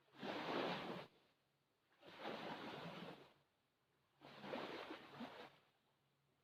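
Small waves lapping on a shore: three short washes of water about two seconds apart, with near quiet between them.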